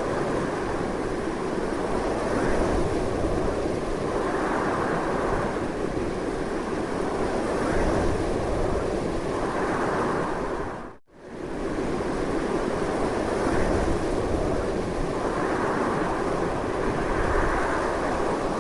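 Strong, continuous wind blowing in slow swells. About eleven seconds in it briefly fades almost to silence, then comes back.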